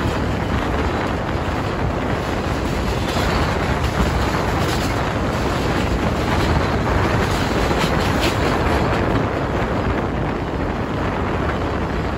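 Freight train boxcars passing close at speed: a steady, loud rumble of steel wheels on the rails, with a few sharp clicks.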